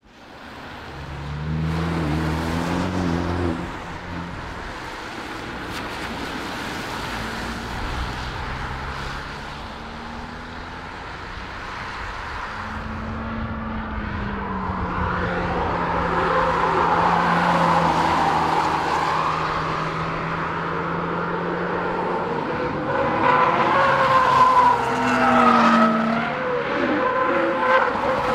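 A camouflaged Hyundai Veloster Turbo prototype driven hard in several passes. Its turbocharged engine rises and falls in pitch as it is revved and held through the corners, over tyre and road noise. The car is loudest in the second half.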